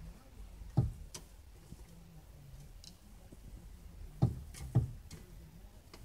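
Male northern cardinal striking a car's side mirror and window, heard from inside the car as dull thumps: one about a second in, then two more about half a second apart later, with a few lighter taps. This is the territorial attack a cardinal makes on its own reflection.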